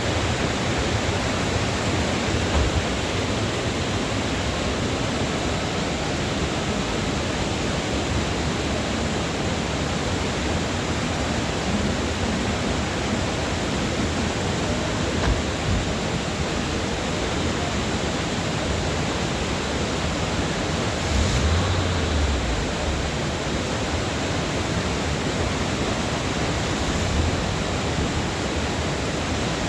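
Steady rush of a waterfall, even and unbroken, with a brief low bump about two-thirds of the way through.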